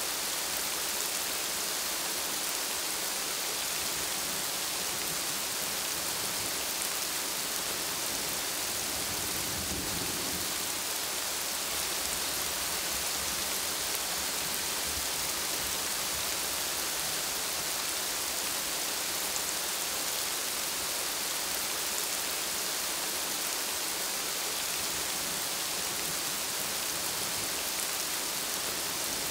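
Steady rain falling on broad plant leaves: an even, unbroken hiss with no single drops or other events standing out.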